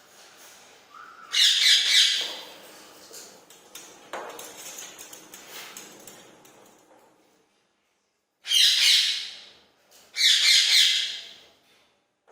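Rose-ringed parakeet giving three loud, harsh screeching calls of about a second each, one near the start and two close together near the end, with fainter scratchy sounds between.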